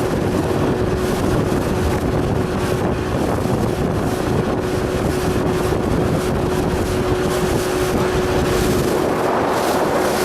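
A motorboat's engine running steadily under way, with a held whine over the rush of the hull and water, and wind buffeting the microphone.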